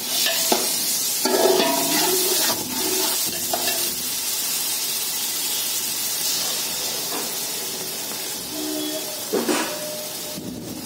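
Masala paste sizzling in hot oil in a metal kadhai, with a perforated steel spatula scraping and knocking against the pot as the paste is stirred.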